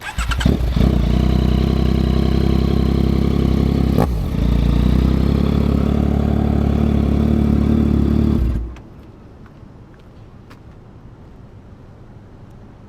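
Yamaha MT-09 three-cylinder engine with a Yoshimura R11 aftermarket exhaust starting up and idling loudly and steadily, with a brief stutter about four seconds in. It is switched off abruptly near the end.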